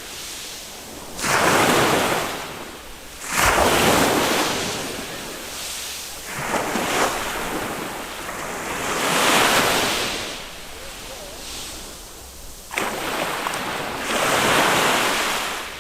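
Small waves of a calm Mediterranean sea breaking on the beach one after another, each a rush of surf that swells and then fades, about every two to three seconds; two of them break with a sudden slap, one near the start and one near the end.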